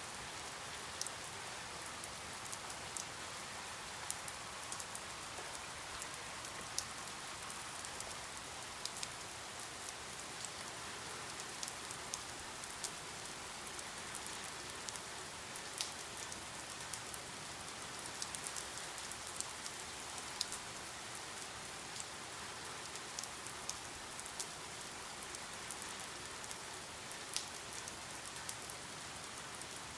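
Steady rain falling, an even hiss with many sharp individual drops ticking on a surface.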